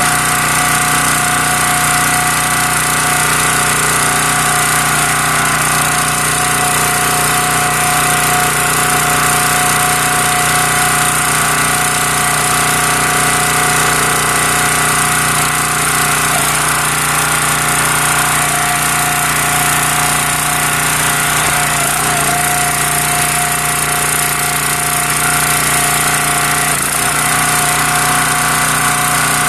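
Small gas engine of a County Line log splitter running steadily at a constant speed.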